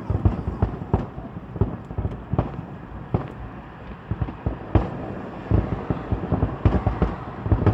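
Fireworks going off: an irregular run of booms and bangs that comes faster in the second half.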